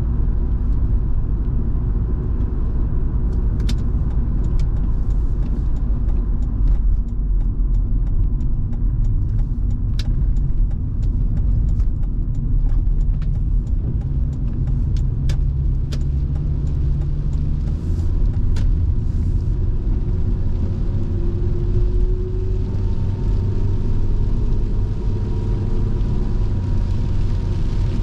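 Inside a Volvo V70 2.5T on the move: a steady low rumble of road noise and its turbocharged five-cylinder petrol engine, with scattered sharp ticks through the middle. The engine note rises about three quarters of the way through.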